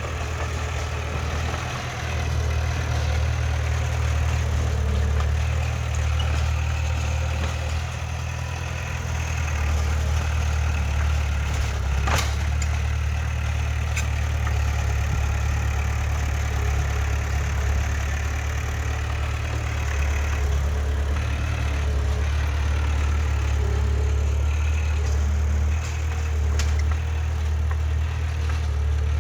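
Diesel engine of heavy earthmoving machinery running steadily with a deep, even rumble. A sharp click or knock sounds about twelve seconds in, with fainter ones later.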